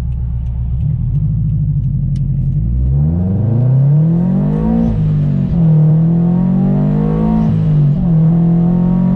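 Supercharged Subaru BRZ's 2.0-litre flat-four with a catless header and single-exit exhaust, cruising at low revs, then accelerating hard about three seconds in. The revs climb, drop at a gear change near the middle, and hold high as the car keeps pulling.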